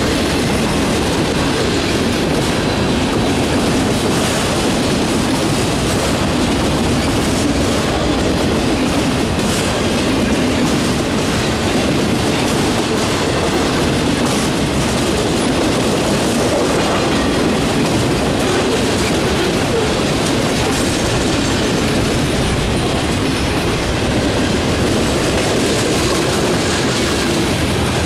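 Cars of a mixed freight train (autoracks, boxcars, covered hoppers and tank cars) rolling past at close range: a steady, unbroken noise of steel wheels on rail.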